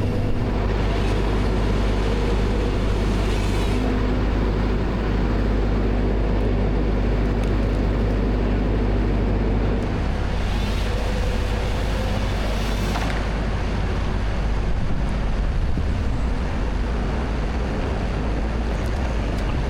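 Heavy diesel machinery running steadily with a low engine drone, its pitch shifting slightly about ten seconds in.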